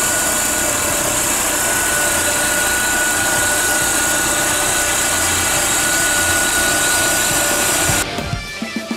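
Chevrolet Tornado pickup's four-cylinder petrol engine running steadily with the hood open, with a constant high whine over it. About eight seconds in it cuts off and background rock music takes over.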